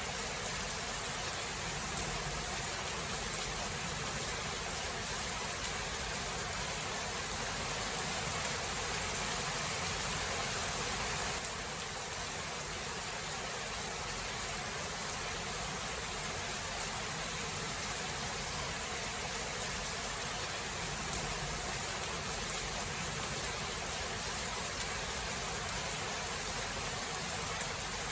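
Steady rain falling in a thunderstorm, an even hiss with a few faint patters, easing slightly about eleven seconds in; no thunder is heard.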